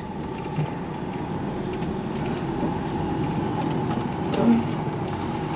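HGV truck engine running steadily, heard from inside the cab as the truck sets off, with a short louder note about four and a half seconds in.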